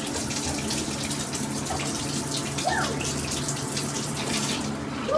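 Water spraying steadily from a shower head, an even rushing hiss.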